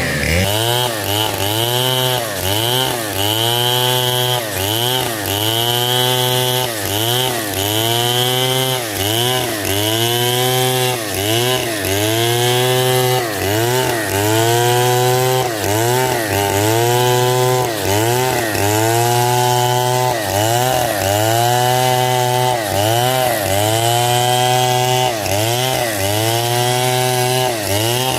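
Stihl MS 070 two-stroke chainsaw sawing hard coconut wood. The engine pitch dips and recovers about once a second as the chain bites into the wood under load.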